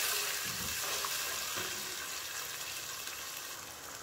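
Onions and spice paste sizzling in hot oil in a pot, with a spatula stirring and scraping through it in the first couple of seconds; the sizzle eases off toward the end.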